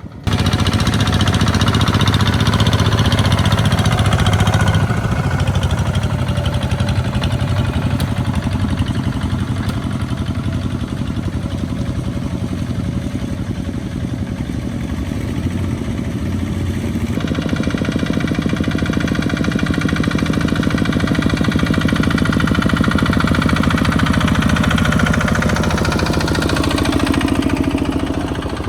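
Small single-cylinder diesel engines of two-wheel walking tractors running steadily under load. About two-thirds of the way through the engine sound changes abruptly, and near the end one engine's note falls as it slows.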